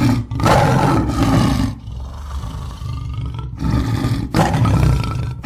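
Tiger roaring: two loud roars in the first couple of seconds, then a quieter growling rumble for about two seconds, then more loud roars.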